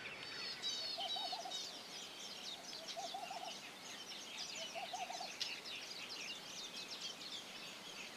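Faint chorus of wild birds: many high chirps and trills throughout, with a low hooting call of a few quick notes repeated three times, about two seconds apart.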